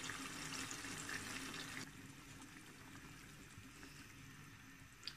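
Yogurt-marinated chicken added to hot oil and fried tomatoes in a pan, sizzling. The sizzle drops off sharply about two seconds in, leaving a fainter frying hiss, with one click near the end.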